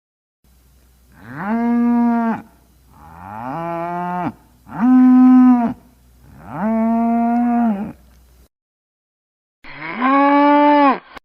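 Cow mooing: four long moos in a row, then one more after a short gap near the end.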